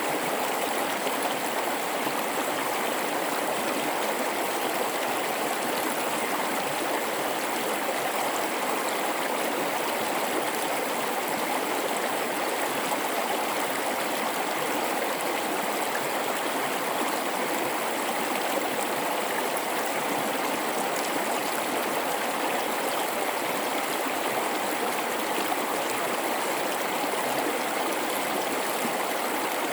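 A river flowing over rocks in a gorge, a steady rushing babble of water.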